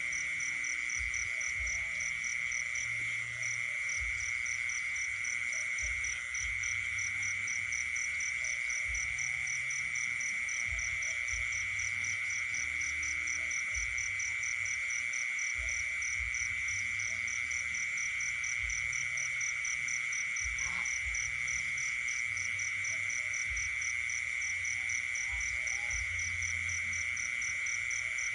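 Night chorus of frogs and insects: a steady, loud high-pitched insect trill, a faster pulsing chirp above it, and frogs calling under them.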